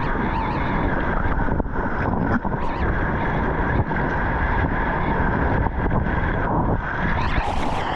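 Rushing whitewater around a kayak, with wind buffeting the microphone; brighter splashes come in about the last second.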